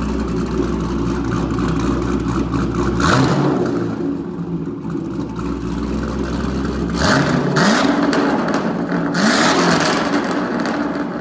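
Heavily cammed Corvette V8 with a stage 3 BTR cam, idling with a choppy lope and blipped up in revs three times, about three seconds in, seven seconds in and near the end.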